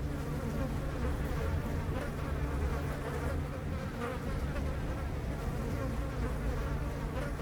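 Honeybee swarm clustered in a tree, many bees buzzing at close range in a dense, steady hum.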